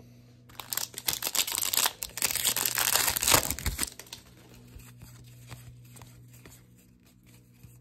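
A foil trading-card pack wrapper torn open and crinkled for about three seconds, followed by fainter light handling sounds of the wrapper and cards.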